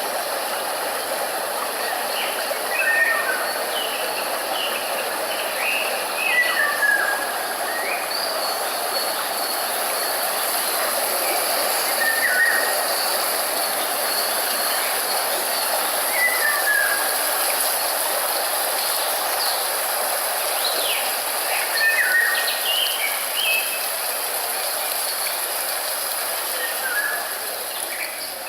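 A steady rushing hiss with birds calling now and then: short chirps scattered throughout, some falling in pitch.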